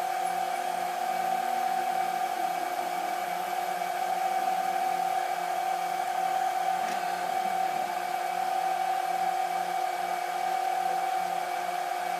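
Steady electric whirring hum with one strong constant tone and a faint low pulsing about twice a second, like a small motor or fan running.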